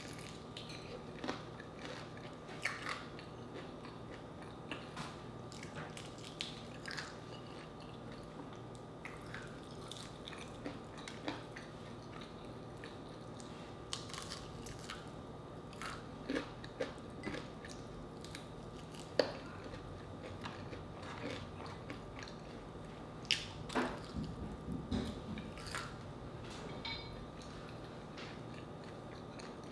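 Biting and chewing crispy fried chicken, with irregular crunches and wet mouth sounds scattered throughout. A faint steady hum runs beneath.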